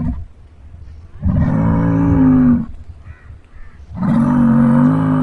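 Cow mooing: two long, low moos, the first about a second in and the second near the end.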